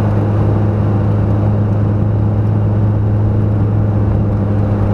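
Fiat Cinquecento 900 rally car's small four-cylinder engine heard from inside the cabin, held at steady revs with one unchanging pitch, over tyre and road noise.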